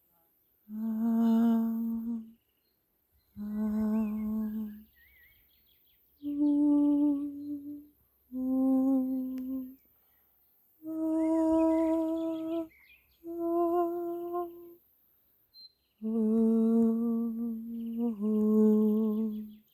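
A person's voice humming a slow series of about eight long held notes, each a second or two long with short pauses between, the pitch stepping up and down from note to note. Faint bird chirps come in between the notes.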